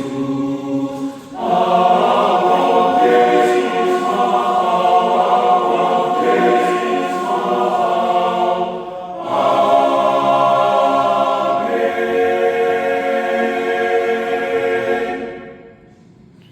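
Men's choir singing a hymn in several-part harmony, with short breath breaks about a second in and again around nine seconds. It closes on a long held final chord that fades and stops about fifteen seconds in.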